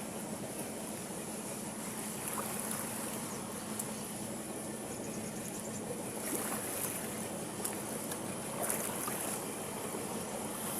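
Steady rush of moving water, with a few faint clicks.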